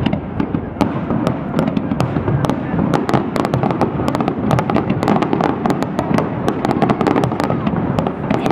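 Aerial fireworks in a dense barrage: shell bursts and crackling stars going off several times a second over a continuous rumble, with no let-up.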